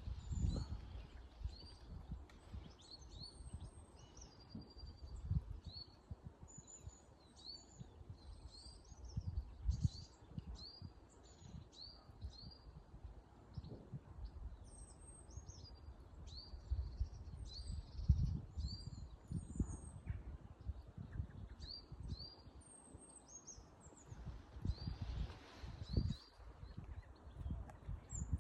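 Small woodland birds singing and calling in winter, a busy run of short high chirps and whistles repeating throughout, over a low irregular rumble.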